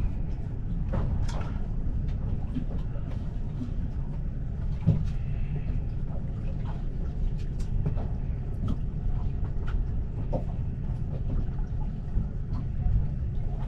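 Boat engine running steadily at idle, a low rumble, with scattered light clicks and taps from fishing tackle being rigged by hand.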